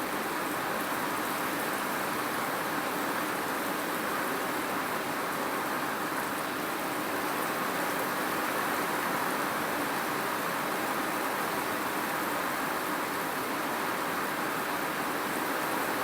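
Steady rain: an even, unbroken hiss with no separate drops or knocks standing out.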